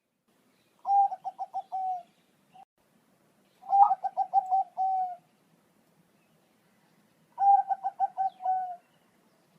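Thai-bred ("Bangkok") zebra dove cooing: three song phrases, each a strong opening note, then a quick run of short bubbling notes ending on a longer held note.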